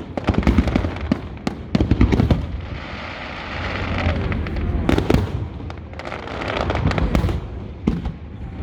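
Fireworks display: repeated bangs of shells bursting, with stretches of crackling between them.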